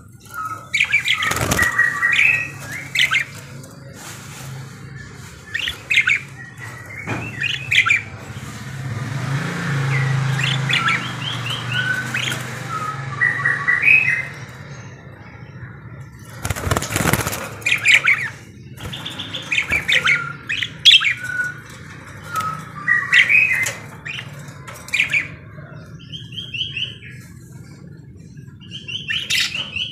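Pet budgerigars (parakeets) calling busily, with many short chirps, warbles and squawks coming in quick runs throughout. A steady low hum runs underneath, and a brief loud burst of noise comes a little past halfway.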